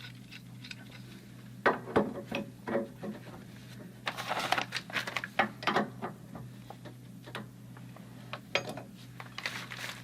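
Metal clinks and scrapes of wrenches working on a corroded dielectric union in a copper water line, as it is loosened to break it apart. Irregular knocks, thickest about four to six seconds in, over a steady low hum.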